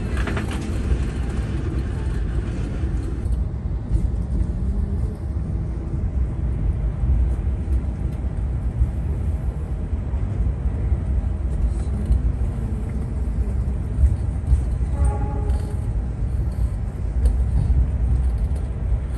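Steady low rumble of the Gajayana executive passenger train running, heard from inside the carriage as it moves along a station platform.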